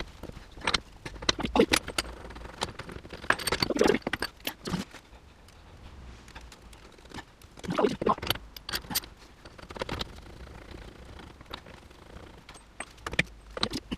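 Metal hand tools and parts clinking and knocking irregularly as they are handled, with a few louder bursts of clatter.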